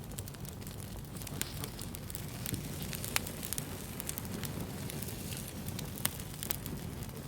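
Wood fire burning with a steady low rumble and irregular sharp pops and crackles, a few louder pops standing out.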